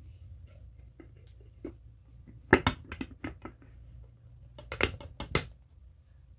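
Small fluted aluminium mould and a plate clinking and knocking together as the mould is turned over onto the plate to unmould cuscuz: scattered light taps, a sharp clatter about two and a half seconds in, and another short cluster of knocks near five seconds.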